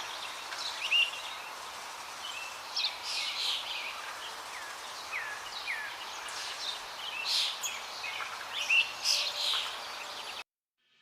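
Several small birds chirping and calling over a steady outdoor hiss: short high notes and quick downward-sliding whistles scattered throughout. The sound cuts off to silence near the end.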